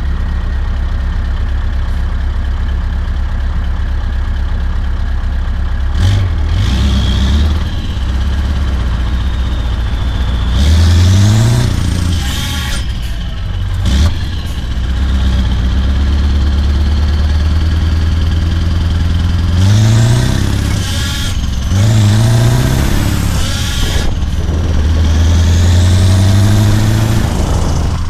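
Scania V8 truck engine running steadily, then pulling hard several times, its pitch rising with each pull and dropping back at each gear change. A high whistle rises alongside some of the pulls.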